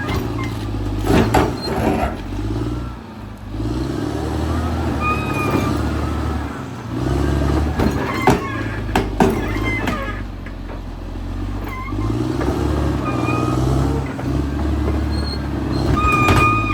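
Caterpillar D6R XL bulldozer's diesel engine working under load, its pitch rising and falling several times as the operator pushes soil, with sharp metallic clanks from the tracks and blade.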